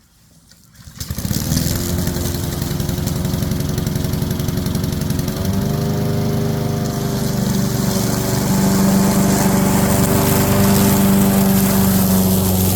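A lawn mower starts up about a second in and then runs steadily. Its pitch steps up about five seconds in, and it gets a little louder around eight seconds.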